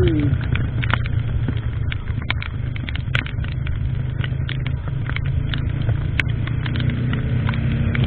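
A motorcycle running along, with a steady low rumble of engine and wind on the action camera's microphone and scattered sharp clicks throughout. A cow's moo tails off right at the start.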